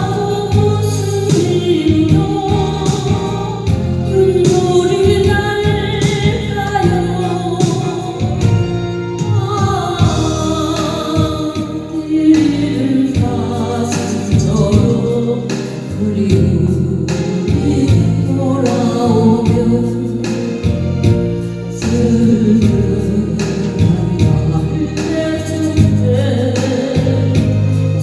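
Music: a sung melody over a backing track with a steady beat.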